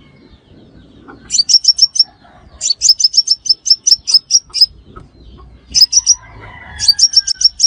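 Crimson sunbird calling: quick runs of sharp, high chips, four runs with short gaps between them, the longest lasting about two seconds.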